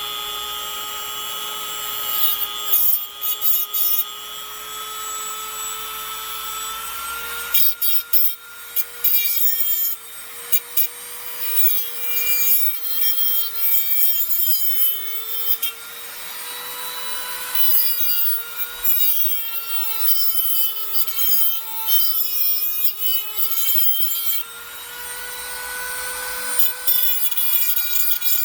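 High-speed rotary tool grinding down the stem of an old bent valve in a VW air-cooled cylinder head. Its motor whine sags and recovers as it takes load, and bursts of rasping grinding come and go as the bit bites. The valve stem is being shaved so that pulling it out does not ruin the valve guide.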